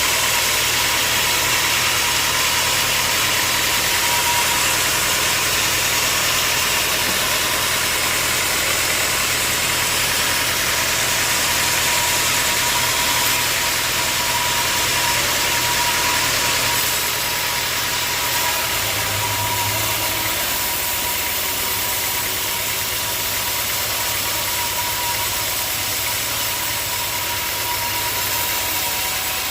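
Sawmill machinery running steadily, a motor hum under a constant hiss with a steady whine.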